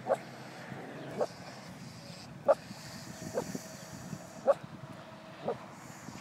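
A dog barking, six short sharp barks about a second apart, with a faint thin whine in between.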